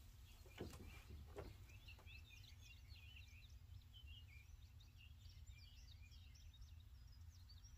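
Near-silent outdoor ambience with faint birds chirping, many short high chirps, and two soft knocks about half a second and a second and a half in.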